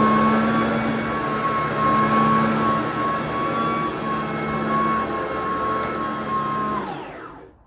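Sebo BP60 cordless vacuum cleaner running steadily, then switched off near the end, its motor falling in pitch as it winds down.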